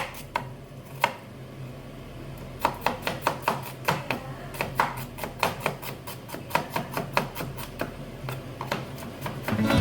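Knife chopping on a cutting board in short quick strokes, about three to four a second, after a brief pause near the start.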